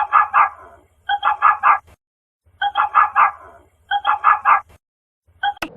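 Dog barking in quick yapping bursts of three or four barks each, repeated about four times with short pauses between.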